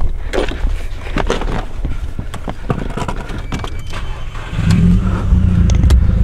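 Keys jangling and scattered knocks as someone gets into a car, then about four and a half seconds in the car's engine starts and runs steadily.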